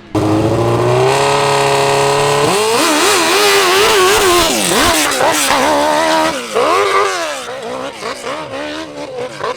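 Big open-class hill-climb motorcycle engine at full throttle. Its pitch climbs steadily for about two and a half seconds, then surges up and down as the throttle is worked, and it grows choppier and more uneven near the end.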